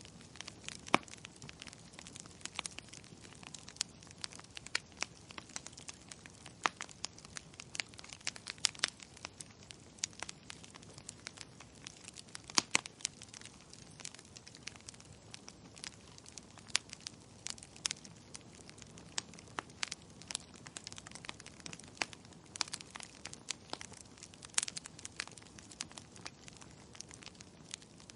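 Wood fire crackling in a fireplace: irregular sharp pops and snaps over a soft steady hiss, with one louder pop about twelve seconds in.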